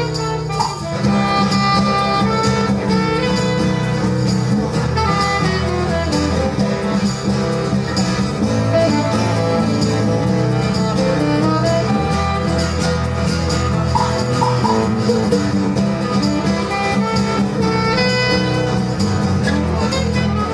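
Live band playing an instrumental passage of a song, with fiddle and guitar over a steady bass.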